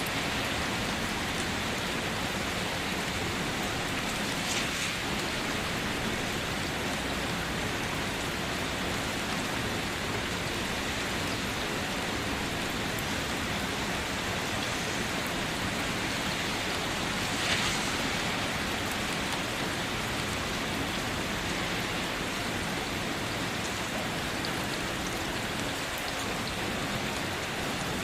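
Steady rain falling and pattering on surfaces, an even hiss with occasional single drops striking a little louder, the strongest about 4.5 s and 17.5 s in.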